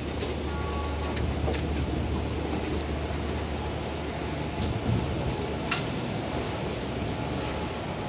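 Indian passenger train running, heard at a coach window: a steady low rumble and rattle of the coach with a few sharp clicks of the wheels over rail joints, the loudest about six seconds in.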